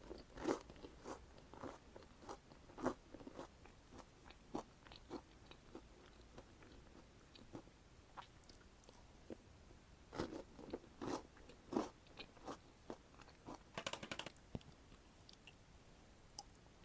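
Close-up eating sounds of Ferrero Rocher chocolates: sharp, irregular crunches as the wafer shell and hazelnut are bitten and chewed, coming in clusters with short pauses between.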